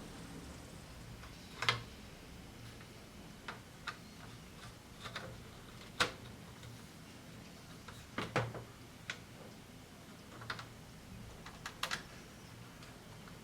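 Irregular small clicks and taps of hands handling the plastic parts of a disassembled Casio SA-75 keyboard, about ten in all, the sharpest about six seconds in.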